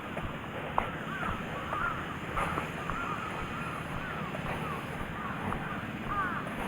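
Birds calling over and over in short arched notes, several at once, over steady wind and sea noise.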